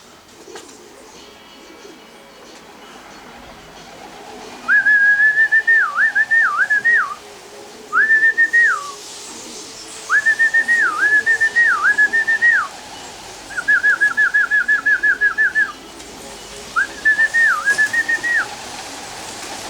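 A person whistling to call racing pigeons down into the loft trap: five bursts of high, held notes that dip quickly between them, with a fast warbled trill in the middle. The whistling starts about five seconds in and ends shortly before the finish, with faint pigeon sounds underneath.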